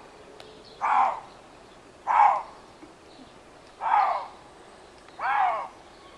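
Eurasian lynx calling: four short calls in a row, about a second and a half apart, each about half a second long.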